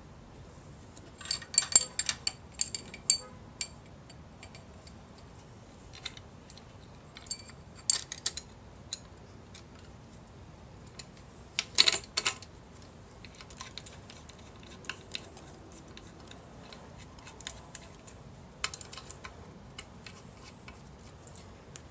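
Small metal parts and hand tools clicking and clinking in short clusters with pauses between, as oil pump hardware is handled and fitted on a small-block Ford 302.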